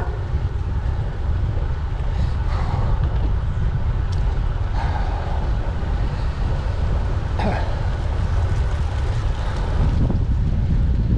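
Wind buffeting the microphone of a camera on a moving bicycle: a steady low rumble, with a few brief clicks and rattles from the ride.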